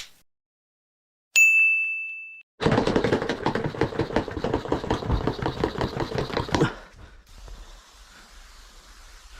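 A single bright ding that rings out for about a second. After it come roughly four seconds of dense, rough, scratchy noise from the concrete work, which stops abruptly.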